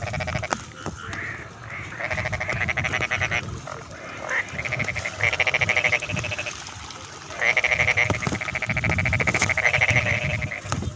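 Frogs calling in a rice paddy: bouts of rapid pulsed croaks, each lasting one to three seconds, repeating with short pauses between them; the longest bout comes in the second half.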